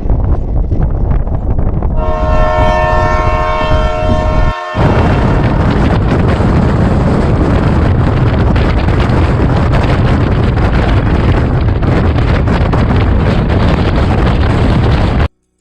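Indian Railways express train running, a loud steady rumble, with a train horn sounding one held note for about two and a half seconds near the start. The sound cuts off suddenly just before the end.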